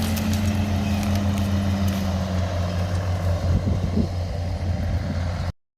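John Deere 7710 tractor's common-rail 8.1-litre six-cylinder diesel running steadily, its note easing down slightly over the first couple of seconds. The sound cuts off abruptly near the end.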